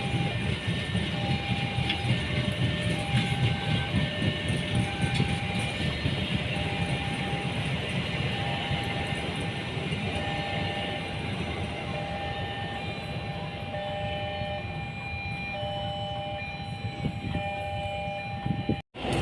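Train running past with a steady rumble, while a short electronic tone repeats evenly over it; the sound cuts off abruptly near the end.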